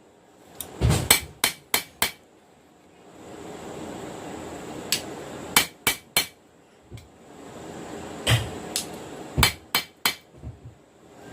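Hand hammer striking a knife blade on an anvil in short runs of several blows, a few seconds apart. Between the runs a steady rushing noise rises, around three and eight seconds in.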